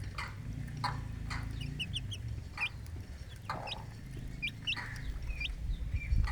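Mother hen clucking in short calls while her chicks peep with quick, high, upward-sliding cheeps, more of them from about two seconds in.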